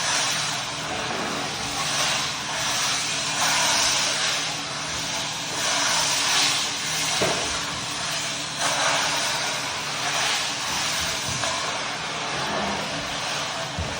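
Floor buffing machine running, its pad hissing across oak flooring coated in hard wax oil, with a steady motor hum under a swishing noise that swells and fades every second or two as the machine sweeps back and forth.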